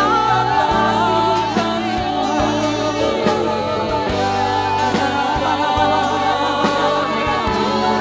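Live church worship band playing gospel praise music with singers, a steady bass and drum beat under sustained chords and wavering vocal lines.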